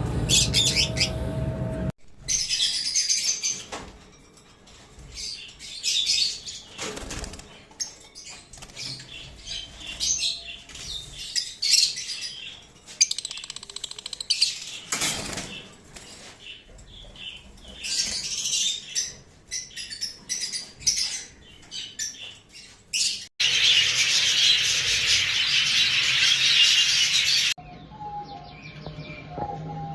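Caged pet birds chirping and squawking in short, high calls, with a louder, dense chorus of chatter for a few seconds near the end that starts and stops abruptly.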